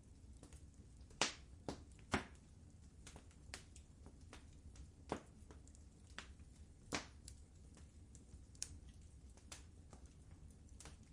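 Wood fire burning in a fireplace: a low steady rumble with irregular sharp pops and crackles, the loudest pops about a second, two seconds, five seconds and seven seconds in.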